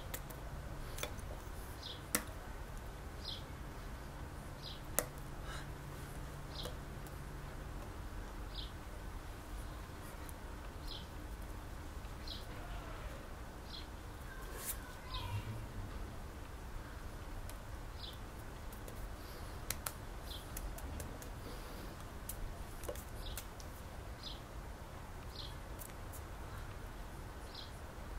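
A bird giving short, high chirps, repeated about once a second with uneven gaps, over a steady low background hiss, with a few sharp clicks.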